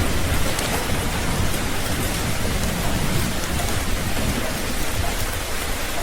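Steady heavy rain, an even dense hiss, with a low rumble of thunder fading away at the start and coming back faintly about halfway through.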